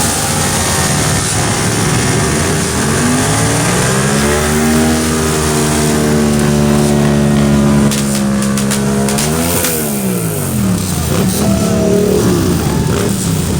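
Dirt bike engine revving: it climbs and is held at high revs for several seconds, blips sharply and falls back, then revs up briefly again near the end.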